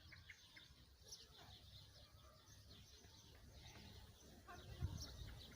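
Faint, scattered chirps of small birds over a low rumble, with a soft thump near the end.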